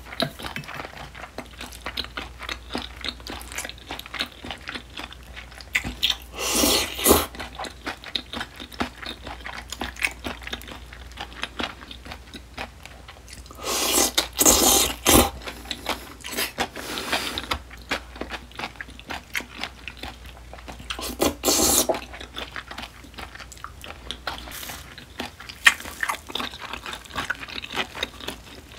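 Close-miked chewing of a mouthful of spicy seasoned raw oysters: a steady run of small chewing clicks, with three louder stretches of biting about 6, 14 and 21 seconds in.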